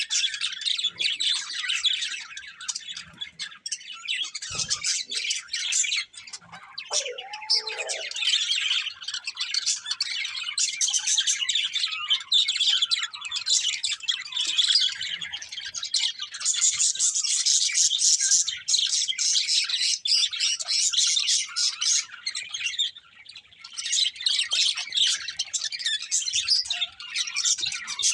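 Budgerigars chirping and chattering continuously in fast, high-pitched runs, dropping away briefly about three-quarters of the way through.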